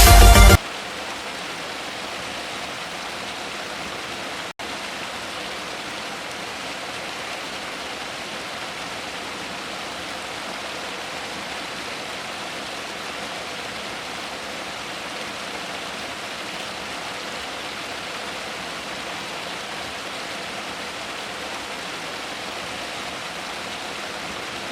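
A brief loud burst, then a steady, even rushing noise like running water or rain, with no birdsong in it. The noise cuts out for an instant about four and a half seconds in.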